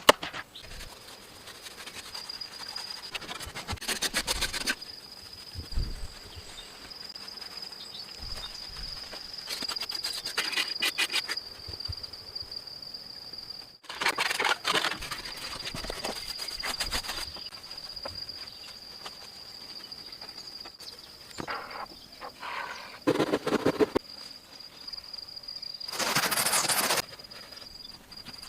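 Outdoor ambience with a steady high-pitched trill, broken about five times by short bursts of rapid rattling or scraping noise.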